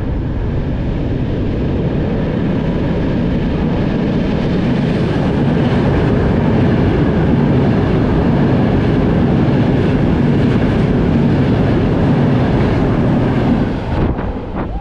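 Frecciabianca tilting train passing at speed through a station inside a tunnel: a rumbling roar of wheels on rail that builds for several seconds and stays loud and steady as the carriages rush by, then drops off abruptly near the end.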